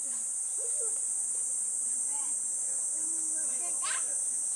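Steady, high-pitched chirring of night insects, unbroken throughout.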